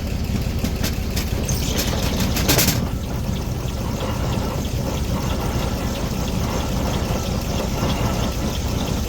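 Engine driving an old circular sawmill, running steadily with a fast low pulse. About two and a half seconds in there is a brief loud rush of noise.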